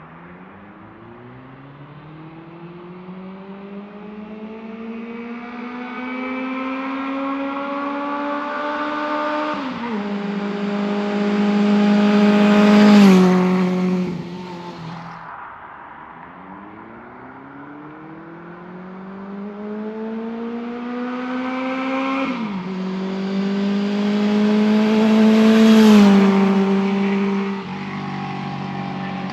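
1978 Honda CB750K's inline-four engine accelerating through the gears twice, each run climbing in pitch and stepping down at each upshift, getting louder to a peak before the throttle comes off.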